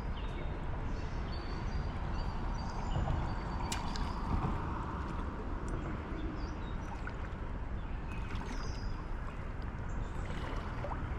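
Creek water running steadily over rocks, a continuous rushing and gurgling.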